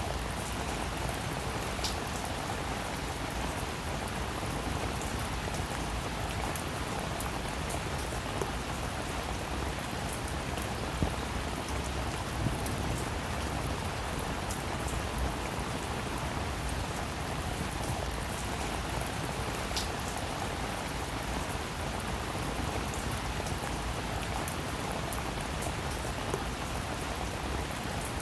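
Steady rainfall, with individual drops ticking now and then over an even hiss.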